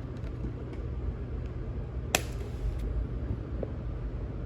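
A steady low room hum, with one sharp click about two seconds in and a few faint ticks from plastic toy-figure parts being handled.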